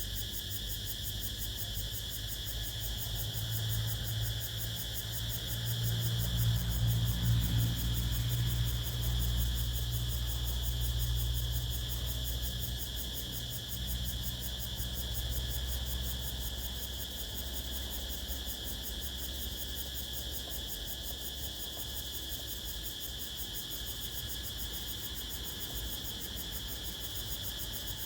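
Steady chorus of crickets chirping at a high pitch, with a low wind rumble that swells from about four seconds in and dies down after about sixteen.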